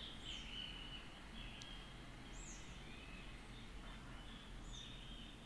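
Faint birds calling in the distance, a few short chirps and whistles spaced a second or two apart, over a low steady background hum.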